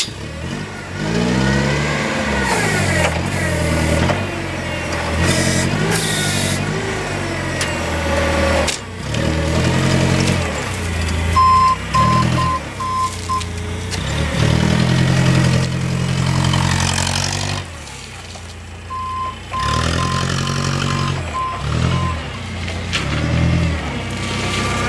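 Propane forklift engine revving up and down again and again as the truck is worked. A backup alarm beeps in a short run about halfway through and in another, longer run later.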